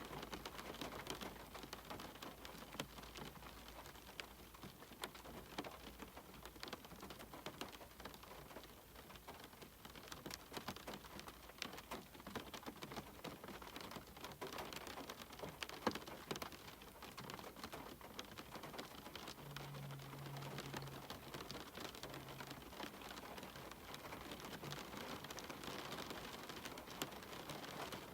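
Steady rain, with many separate drops tapping on a cabin window.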